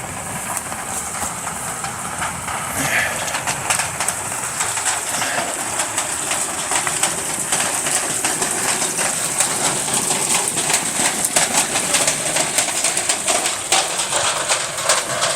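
Rain falling, a steady hiss with a dense, irregular patter of drops that grows busier partway through.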